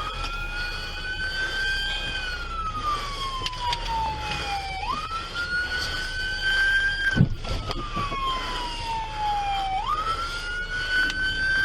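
Police car siren on a slow wail: each cycle jumps up sharply, climbs a little, then slides down over about three seconds, repeating roughly every five seconds. A brief sharp sound cuts in about seven seconds in.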